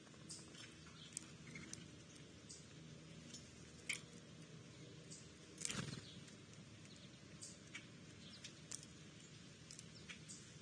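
Faint backyard birds chirping in short, scattered calls over a steady low hum. One louder sudden sound comes about six seconds in.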